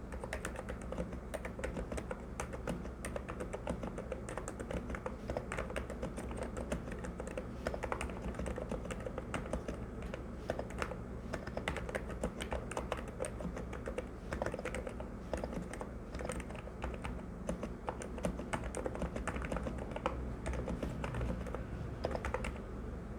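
Fast, continuous typing on a NIZ X108 keyboard with 35 g electro-capacitive switches and PBT keycaps: a dense run of keystroke clicks that stops just before the end, over a steady low hum.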